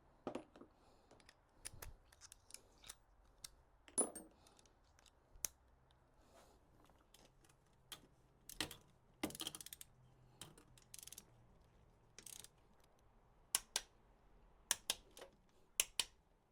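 Hand tools on the cylinder head bolts: a click-type torque wrench and socket extension giving a run of sharp metal clicks, several in quick pairs near the end, with a few short rasping ratchet bursts in the middle. The clicks are the wrench releasing as each top head bolt reaches 28 foot-pounds.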